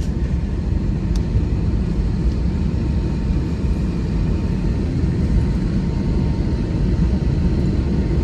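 Steady low rumble inside an airliner cabin with the jet engines running.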